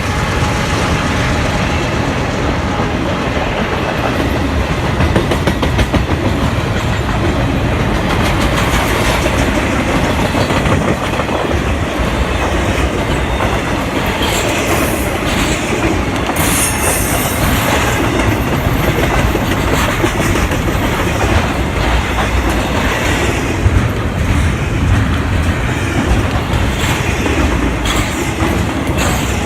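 Norfolk Southern freight train's cars rolling past close by, their wheels clacking over the rail joints in a steady rhythm, with a few high wheel squeals in the middle and near the end.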